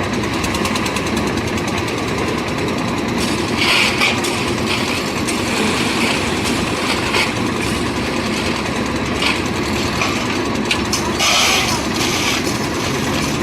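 Engine-driven concrete mixer running with a steady, fast engine beat, with a few brief louder bursts of rattling noise.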